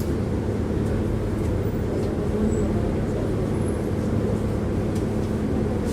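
Tram running, heard from inside the passenger car: a steady low rumble with a constant hum beneath it.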